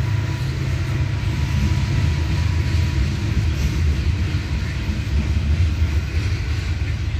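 Freight train boxcars rolling slowly past, a steady low rumble of steel wheels on the rails.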